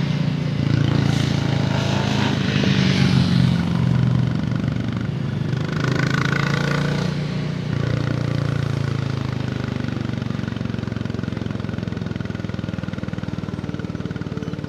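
Royal Enfield Bullet 350's single-cylinder engine and exhaust running under way, pulling on the throttle. About halfway the sound dips briefly, then settles into a steady, slightly quieter beat.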